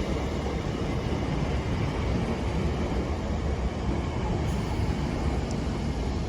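ScotRail Class 318 electric multiple unit at the platform, a steady low rumble with a faint even hum from its equipment.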